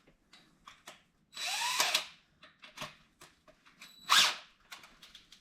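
Power drill running in two short bursts, the first about a second and a half in rising in pitch as it spins up, the second briefer and louder about four seconds in, enlarging a hole in the car's frame to fit a rivet nut. Small clicks and handling knocks between the bursts.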